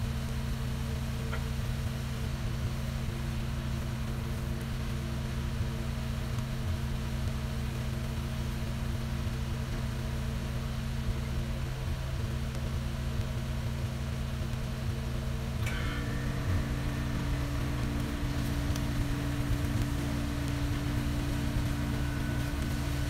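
Steady low mechanical hum, as from a fan or appliance motor, running evenly; about two-thirds of the way in there is a faint click and the hum takes on a slightly different tone.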